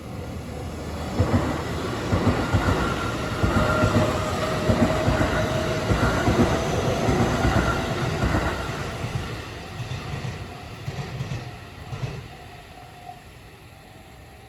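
JR Central Tokaido Main Line Special Rapid electric train passing at speed close by, its wheels clacking over the rail joints in a quick, even rhythm. It builds from about a second in, is loudest for several seconds, then fades away as the last cars go by, gone by about twelve seconds in.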